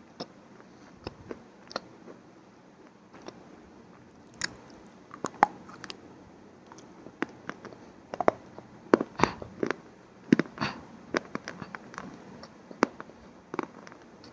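Close-miked crunchy eating: irregular sharp crunches of biting and chewing something crisp, sparse at first and coming thick and fast in the second half.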